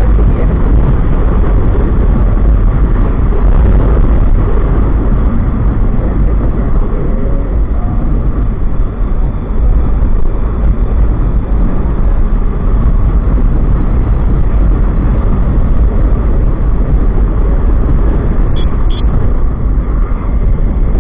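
Wind buffeting the microphone of a moving motorcycle, a loud steady rumble with road and engine noise beneath it.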